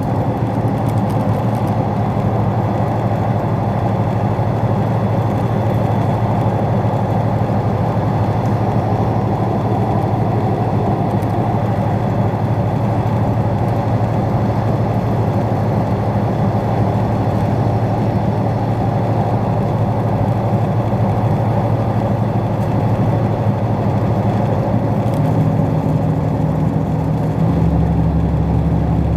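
Running noise of a moving State Railway of Thailand express passenger train: a steady rumble with a low hum. The hum changes pitch near the end.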